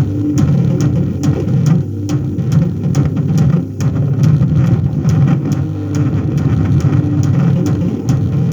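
Loud, low, rumbling electronic noise from an audio mixer fed through odd connections, with a steady hum underneath and sharp clicks repeating about three times a second.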